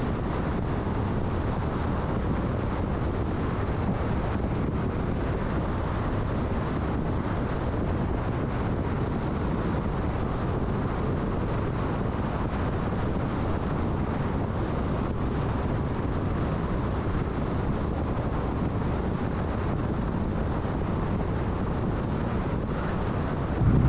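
Car driving at freeway speed: a steady rush of tyre and road noise. Near the end it turns suddenly louder and deeper.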